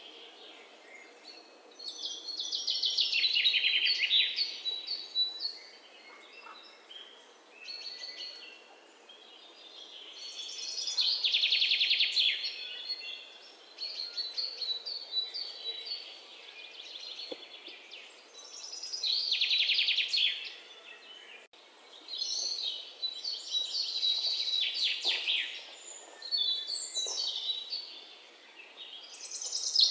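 Songbirds singing: a loud, rapid, high trilled song about two seconds long repeats roughly every eight seconds, with softer chirps and twitters between the songs.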